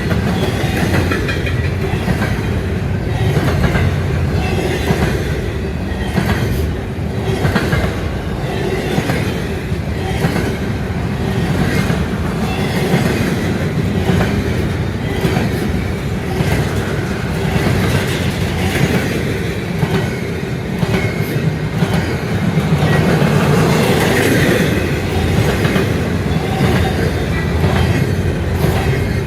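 Intermodal container freight train rolling past, a loud steady rumble with the wheels clacking over rail joints throughout.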